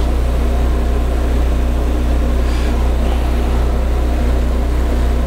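Metal lathe running steadily with the spindle at about 600 RPM, a constant low hum.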